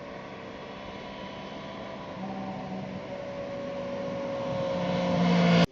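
A steady engine drone with a few held tones, slowly growing louder, then cut off abruptly.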